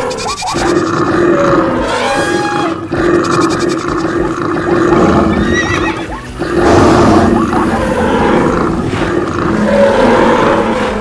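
Loud, continuous mix of animal roars and calls with a steady rumble underneath, a dense animal-stampede sound effect.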